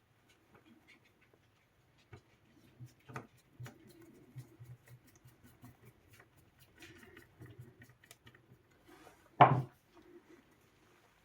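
Small clicks, taps and rubbing of tools and parts being handled on a workbench, with one sharp, louder knock about nine and a half seconds in.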